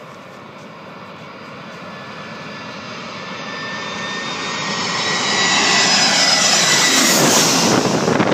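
Jet airliner passing low overhead on its landing approach: the engine whine and rush grow steadily louder for about five seconds, peak as it passes over about seven seconds in, and the whine then drops in pitch as it goes by.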